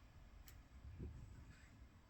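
Near silence: room tone, with a faint click about half a second in and a soft low knock about a second in.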